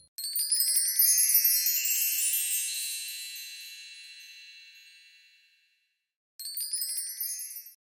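A shimmering cascade of high chimes, many bright notes ringing together and fading away over about five seconds. A second, shorter burst of chimes comes near the end.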